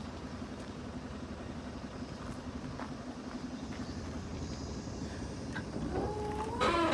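Isuzu Giga heavy truck's diesel engine idling with a steady low rumble. Near the end, a brief wavering tone and a sharp burst of hiss cut in over it.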